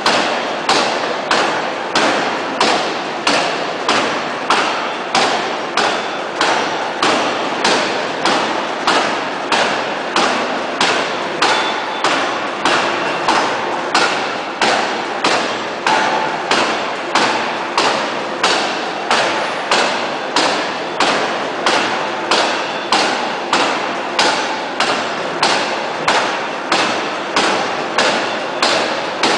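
Hydraulic forging hammer striking a steel shaft between open dies in a steady rhythm of blows, about three every two seconds, each a sharp metallic impact.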